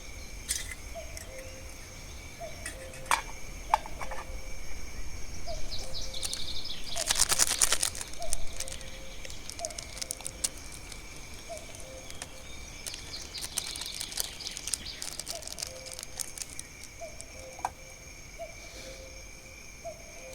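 A bird calling over and over outdoors, a short rising note repeated about every second or so, over a steady high-pitched whine. About seven seconds in, a loud rushing noise with a few clicks lasts about a second.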